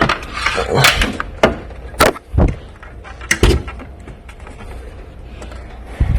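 A handful of sharp knocks and clatters from parts and tools being handled, with a rustling scrape about a second in, over a steady low hum.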